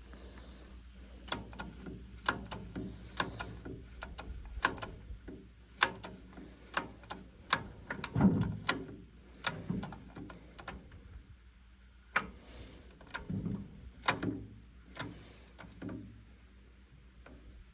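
Irregular clicks and knocks of a chainsaw being handled, with a couple of heavier thuds about halfway and again near the three-quarter mark.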